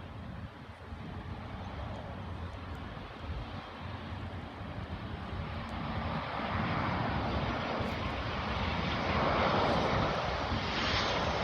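Airliner's engines heard as a steady rushing rumble that grows louder over the last several seconds as the aircraft approaches.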